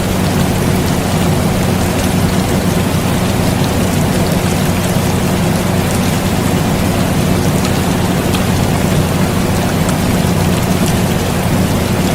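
Steady rain falling, mixed with the even hum of an air conditioner running.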